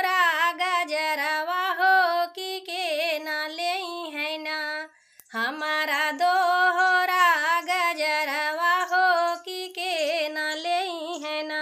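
A woman singing a Bhojpuri folk song solo, holding long notes with vibrato, with a brief breath pause about five seconds in.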